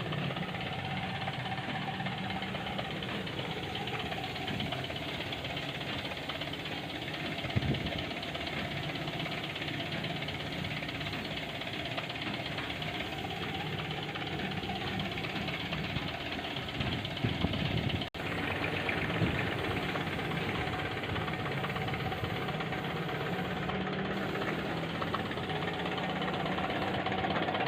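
An engine or motor running steadily, with a couple of short knocks about 7 and 17 seconds in and a brief break about 18 seconds in.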